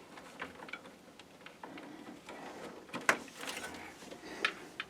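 Light clicks and knocks of hands handling parts and cables inside a PC case, with a sharper click about three seconds in and another near the end.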